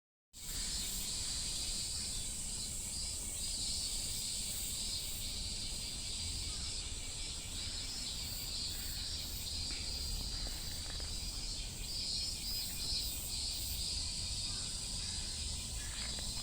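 Cicadas singing in a steady chorus: a continuous high shrill with a lower, pulsing trill that swells and fades every second or so, over a low rumble.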